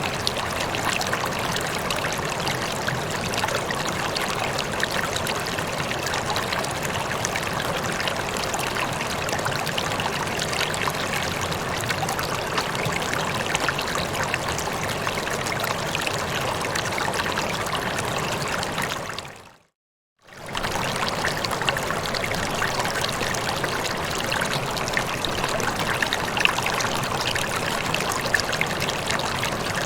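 Running water rippling and trickling at a steady level. About two-thirds of the way through it fades out to silence for under a second, then fades back in.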